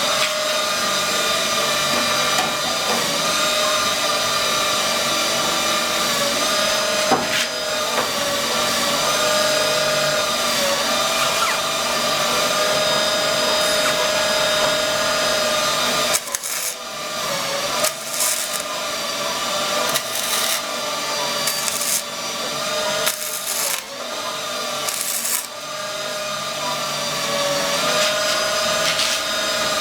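A handheld power tool running under load with a steady whine, cutting into the car body's thin sheet metal. In the second half it stops and starts again several times.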